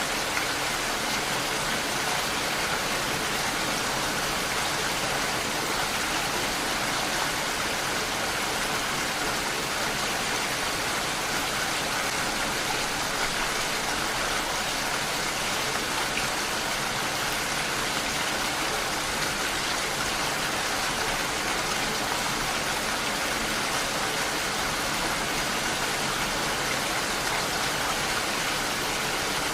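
Steady rainfall, an even hiss of rain with no breaks or single loud drops.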